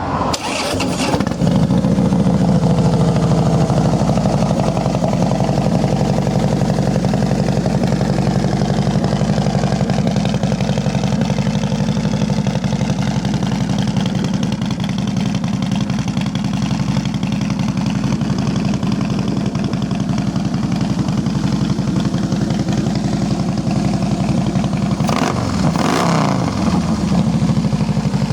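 2012 Harley-Davidson CVO Softail Convertible's Twin Cam 110 V-twin started up: a short burst as it fires, then a steady idle, with one throttle blip near the end that rises and falls in pitch.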